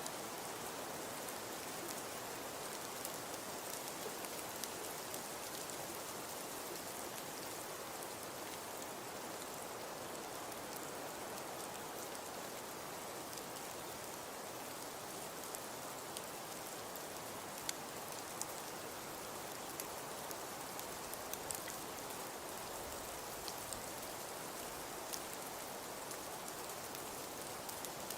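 Fireplace crackling: a steady soft hiss with scattered sharp pops and snaps.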